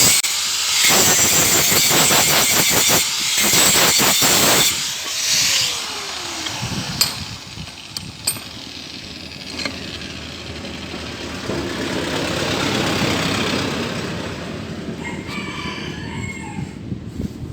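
A power tool working metal for about five seconds, then switched off, its pitch falling as it winds down. After that comes quieter workshop handling with a few sharp metal clicks and light clinks.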